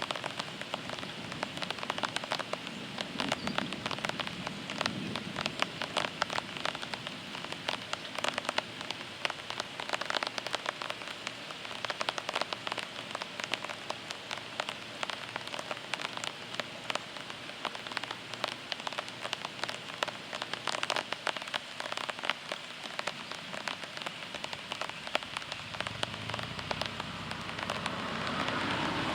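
Heavy rain from a thunderstorm falling on surfaces, a steady hiss dense with the patter of individual drops. A low rumble builds near the end.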